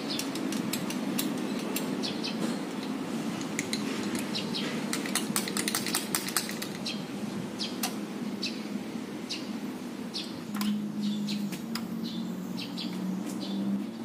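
Hand tools clinking and tapping on metal engine parts in irregular sharp clicks while a connecting-rod bearing cap is being taken off, over a steady low hum.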